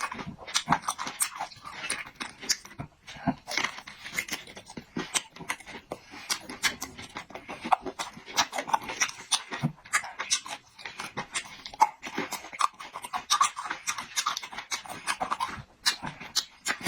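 Close-miked eating: chewing with quick, wet mouth clicks and lip smacks, many a second.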